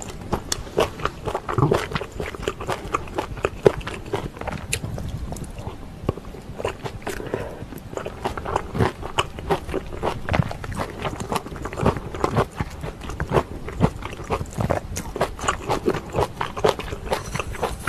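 Close-miked chewing and wet mouth sounds of a person eating pork kimchi stew, a steady run of small irregular smacks and clicks.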